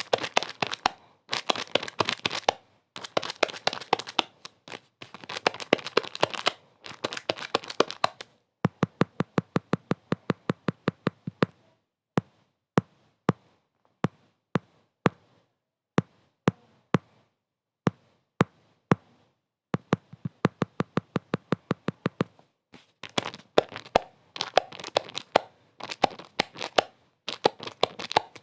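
Dense crinkling crackle in short bursts broken by brief silences. Through the middle it thins to separate sharp clicks, at first about four a second and then sparser, before the dense crackling returns.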